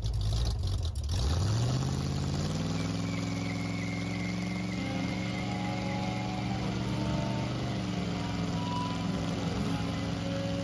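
Oldsmobile 442's V8 engine revving up in a burnout, climbing in pitch over the first couple of seconds and then held at high revs, with the tire spinning and squealing against the pavement as it smokes.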